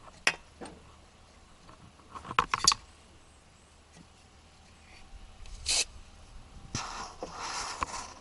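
Hand-work sounds of tools and parts being handled: scattered clicks, a quick run of loud metallic knocks about two and a half seconds in, a short scrape near six seconds, then a rustling stretch near the end.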